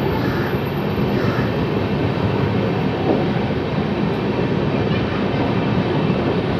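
Brindavan Express's LHB passenger coaches rolling past close by: a steady, even rumble of wheels running on the rails.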